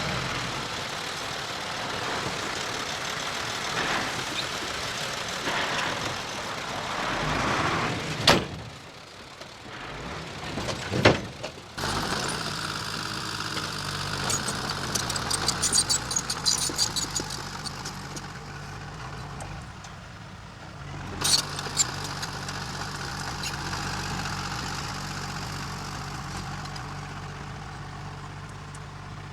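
Diesel engine of heavy earthmoving machinery running steadily, with three sharp bangs and a stretch of rapid clatter in the middle.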